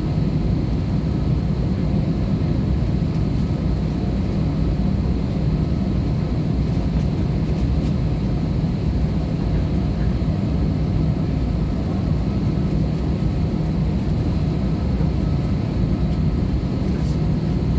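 Steady cabin drone of an Airbus A320-214 in flight, heard from inside the cabin: its CFM56 engines and the rushing air blend into an even, unbroken rumble.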